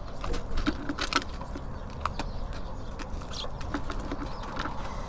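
Small songbirds feeding at a bird feeder: irregular light taps and clicks of beaks pecking at seed and feet landing on the feeder, over a steady low rumble.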